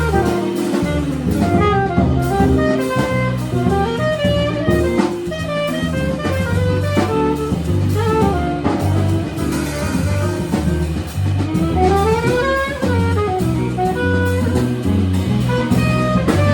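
Jazz quartet playing live: a horn solos in quick rising and falling runs over a bass line and drum kit.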